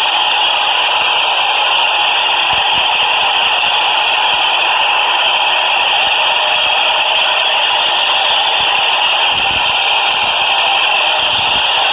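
Train running, a loud steady rattling hiss with no break.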